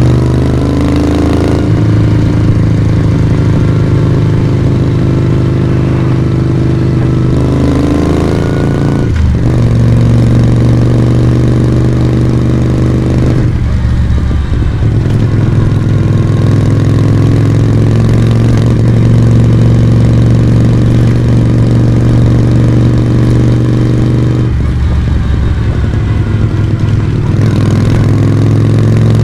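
Moto Guzzi V35 V-twin motorcycle engine and exhaust running under way. Its revs climb and then drop sharply about nine seconds in, and shift up and down a few more times later.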